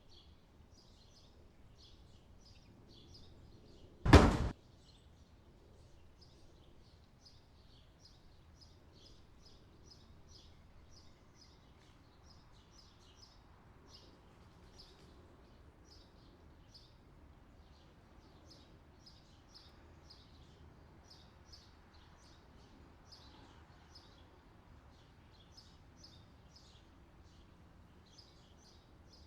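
Quiet ambience with short high chirps repeating evenly, about two a second. About four seconds in, a single short, loud sudden noise cuts across it.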